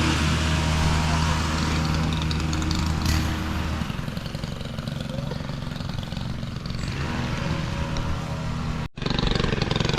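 An engine running steadily, its low even hum fading out after about three to four seconds, leaving a rougher noisy background; the sound cuts out for an instant near the end.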